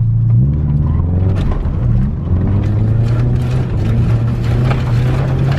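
Subaru Impreza 2.5 RS's flat-four engine with the muffler deleted, its loud exhaust note rising as the car pulls away and accelerates, about half a second in and again near two seconds, then holding a steady drone.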